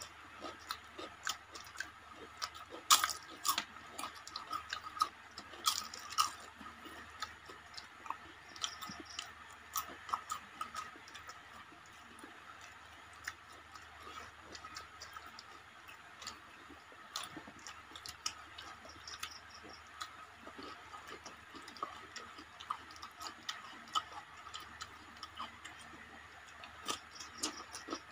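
People eating rice, fish curry and fried fritters by hand: faint, irregular chewing and mouth clicks. A few sharper clicks come around three and six seconds in.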